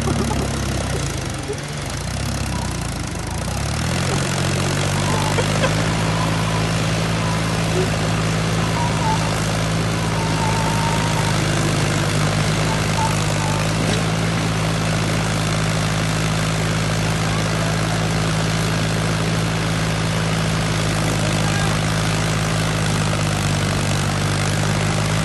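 Vehicle engine running steadily: a low, even drone that settles about four seconds in and holds.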